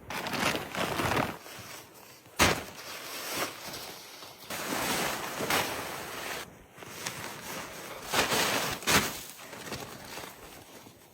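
Camp gear being handled in the snow: irregular rustling and scraping, with a few sharp knocks, the loudest about two and a half and nine seconds in.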